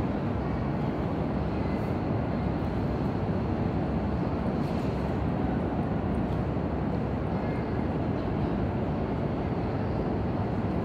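Steady, even hum of an E5 series Shinkansen train standing at the platform, its air-conditioning and equipment-cooling blowers running.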